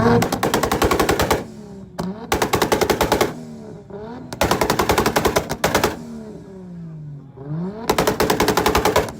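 A car engine revved hard in four bursts against its rev limiter, each burst a rapid machine-gun-like crackle lasting about a second. Between bursts the revs drop away and climb again.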